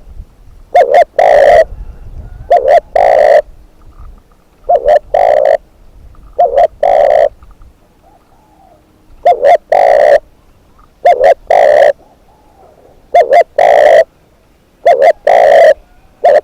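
Spotted dove cooing close and loud, repeating a three-note phrase of two short coos and a longer one about every two seconds.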